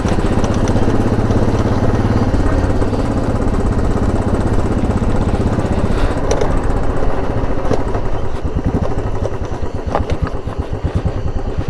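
Royal Enfield Bullet 500's single-cylinder engine running close to the microphone as the motorcycle rides off, its note changing about six seconds in.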